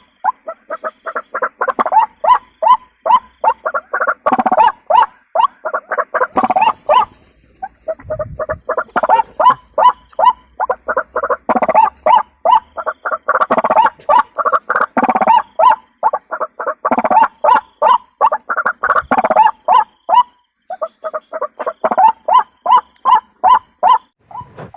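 White-breasted waterhen (ruak-ruak) calling: a long run of quick, repeated harsh notes, three or four a second, with two short breaks.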